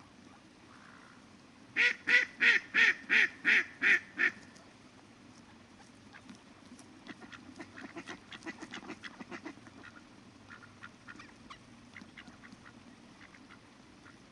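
Duck quacking: a run of eight loud quacks, about three a second, then a longer stretch of softer, quicker calls and clicks, over a faint steady river background.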